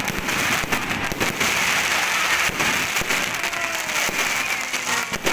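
Dense crackling and clattering with many sharp pops, over faint distant voices.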